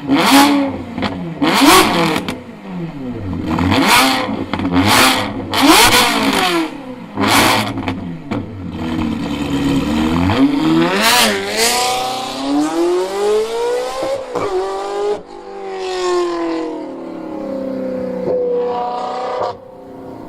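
Ferrari 360 Modena's V8 through a Capristo exhaust, revved hard in a string of short, sharp blips, then pulling up through the revs with the pitch rising and dropping back several times.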